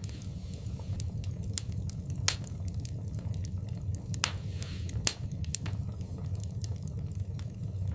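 Wood fire burning in a fireplace, crackling: irregular sharp pops and snaps over a steady low rumble, with louder pops about two seconds and five seconds in.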